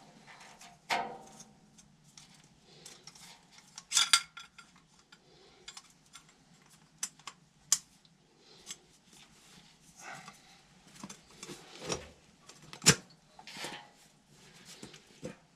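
Irregular clinks and knocks of hand tools and metal parts being handled during work on a furnace blower's motor mount, with a few louder clanks about a second, four seconds and thirteen seconds in.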